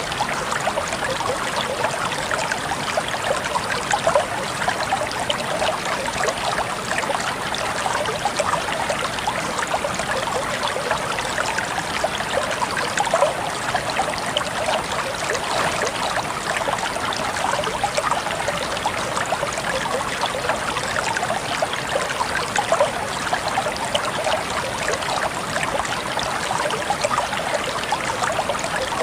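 Shallow clear stream trickling and babbling between rocks, a steady running-water sound with many small splashes and gurgles.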